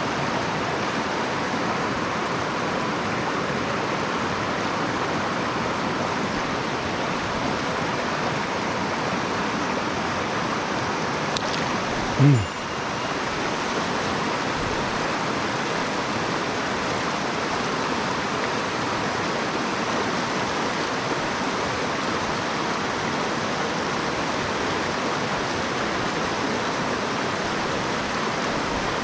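Mountain stream rushing steadily, running high after rain. About twelve seconds in there is one brief low sound that drops in pitch.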